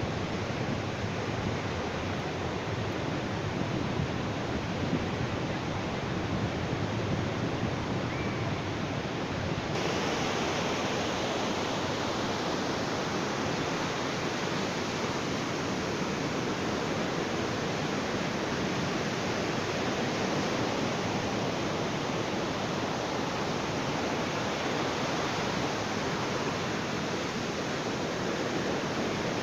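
Ocean surf on a beach, a steady wash of waves with no breaks between them; the hiss brightens slightly about ten seconds in.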